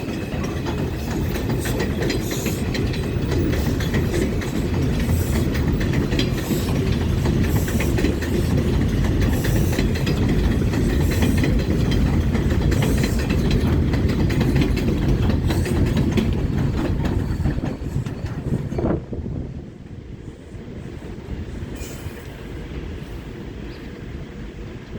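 New York City Subway R142/R142A train running through the station, its wheels clacking over rail joints in a repeating rhythm over a heavy rumble. The sound builds, then drops away sharply about three-quarters of the way through as the train clears.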